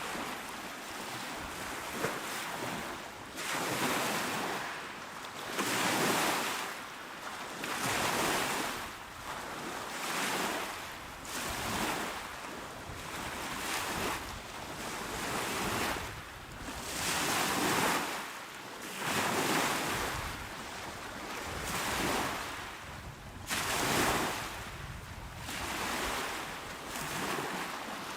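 Small, calm waves washing onto the shore, each breaking into a hiss of water that swells and fades about every two seconds.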